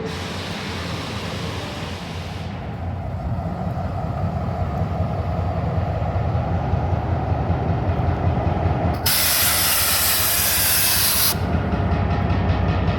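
Train at a station platform: a steady low rumble that grows louder, with a loud burst of hissing for about two seconds that starts and stops abruptly, and a softer hiss in the first couple of seconds.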